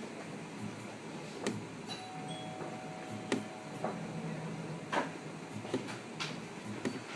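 Stratasys Dimension 1200es 3D printer running: a steady low hum with sharp clicks every second or two, and two short held tones near the middle as its motors move.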